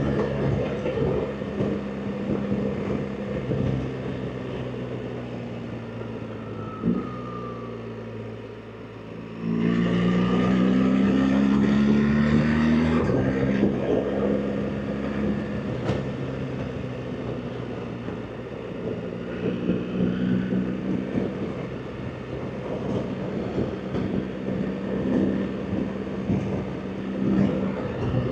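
BMW R 1300 GS Adventure's boxer-twin engine, with the pitch falling as the bike slows off the throttle. About nine seconds in it opens up hard, louder with a rising note for a few seconds, then settles into steady running with small rises and falls in pitch.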